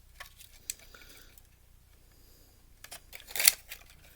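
Small clicks and knocks of plastic and metal parts being handled during disassembly of a Blu-ray player, with a louder scraping rattle about three and a half seconds in.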